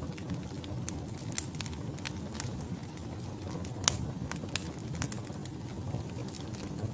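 Wood fire burning in a fireplace: a steady low rumble of flames with irregular sharp crackles and pops from the logs, one louder pop about four seconds in.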